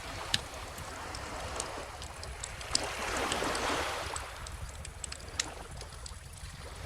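Wood fire crackling with scattered sharp pops, over the wash of calm ocean waves; a small wave swells in about a third of the way through and fades out again.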